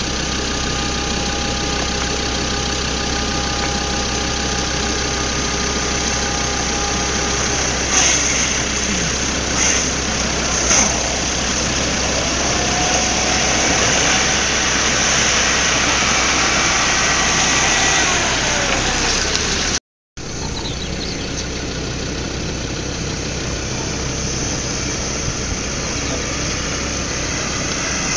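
Lada Niva's engine running as it drives off-road through a muddy water crossing and up a dirt track. There are a few sharp knocks a little before the middle. The sound breaks off for a moment about two-thirds through, then carries on.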